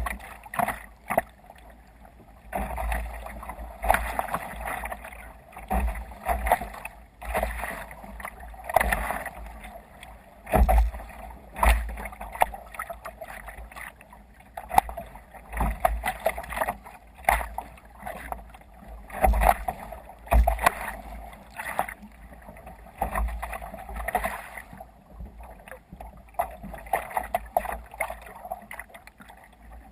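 Water sloshing and splashing against a kayak's hull as it moves through waves, swelling and fading irregularly every second or two, with scattered low thumps.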